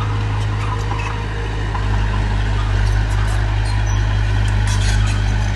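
Heavy diesel earthmoving machine running steadily: a low engine drone with light clanks and rattles over it.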